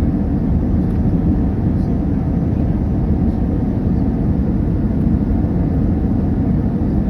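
Steady low rumble of an Airbus A319 heard from inside the passenger cabin: jet engine and airflow noise, even and unbroken.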